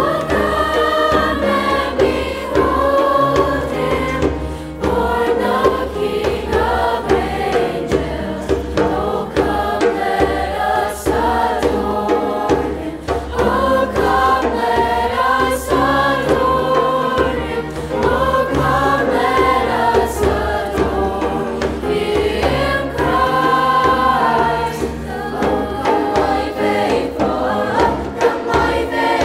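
A school chorus singing together, many voices in harmony.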